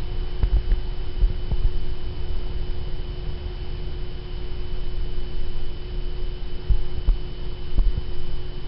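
A steady electrical hum, with uneven low rumbling thumps of handling noise on the microphone and a few faint clicks.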